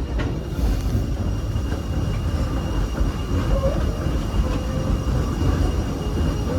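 Passenger train rolling along the track behind a steam locomotive: a steady, uneven low rumble of wheels and coach running.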